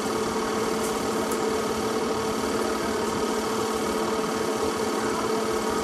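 A steady mechanical hum with a constant droning tone over a hiss, unchanging throughout.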